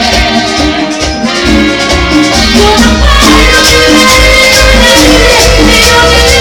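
Latin band music over a PA system, with a pulsing bass line, getting slightly louder and fuller about three seconds in.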